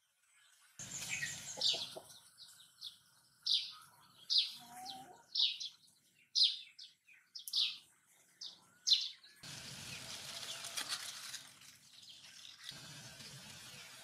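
A bird calling with short, sharp notes, each dropping quickly in pitch, repeated every half second to a second. Bursts of rustling noise come at the start and again near the end.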